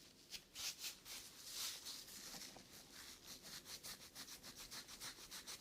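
Rapid rhythmic rubbing close to a sensitive ASMR microphone, several soft hissy strokes a second.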